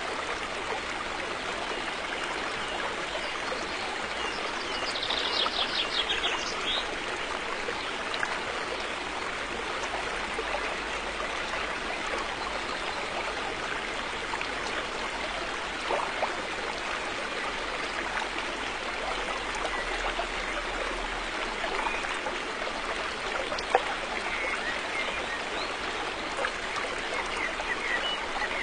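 River water flowing, a steady even rushing with a brief high trill about five seconds in.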